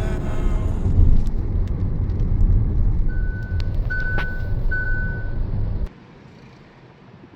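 Road noise inside a moving car: a steady low rumble, with three short high-pitched beeps in the middle. It cuts off abruptly about six seconds in, leaving a much quieter background.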